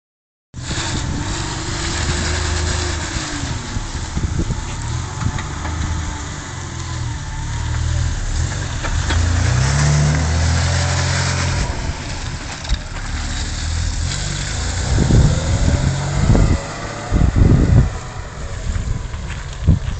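Nissan Patrol four-wheel drive's engine running as the vehicle moves off and drives away along a dirt track, its note rising about halfway through as it accelerates. A few short low thumps come near the end.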